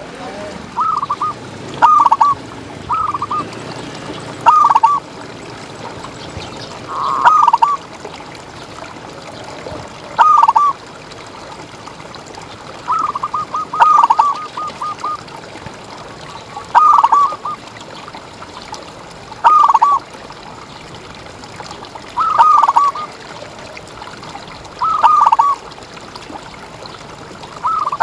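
Zebra dove (perkutut) cooing: short bursts of quick, stuttering coo notes repeated about every two to three seconds, over a steady background hiss.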